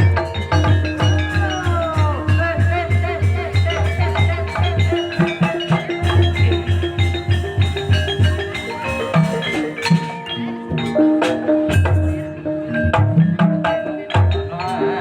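Javanese gamelan music in Banyumasan campursari style: tuned mallet percussion playing over a steady low drum beat, with a gliding melodic line near the start.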